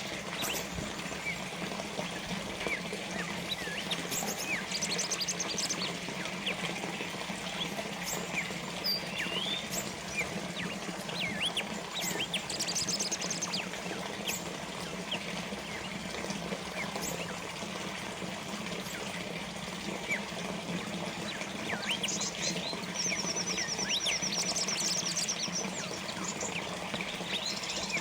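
Small water fountain trickling and splashing steadily, with small birds chirping over it: many short rising chirps and several rapid high trills, the longest lasting a couple of seconds near the end.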